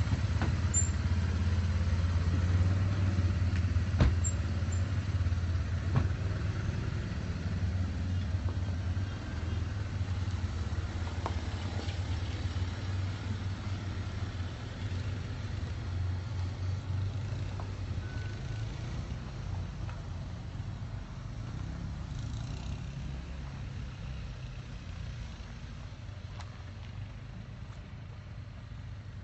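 Motor vehicle engines running, a low steady rumble that slowly fades away, with two sharp clicks a few seconds in.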